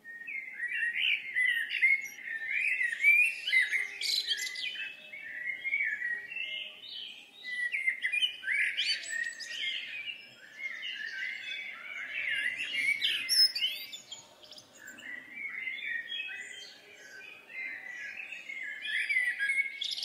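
Birdsong: rapid, continuous chirps and twittering phrases with quick rises and falls in pitch.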